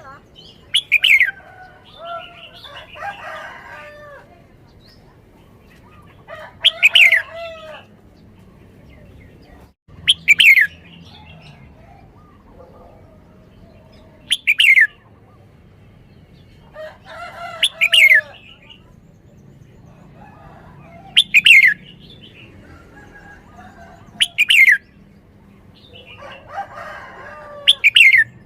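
Red-whiskered bulbul singing loud, short song phrases about every three to four seconds. Each phrase has sharp, falling whistled notes over lower warbling.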